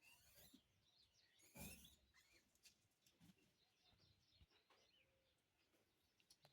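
Near silence: faint outdoor ambience with scattered high chirps and a soft rustle about a second and a half in.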